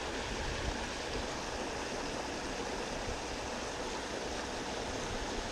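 Mountain trout stream flowing, a steady even rush of water.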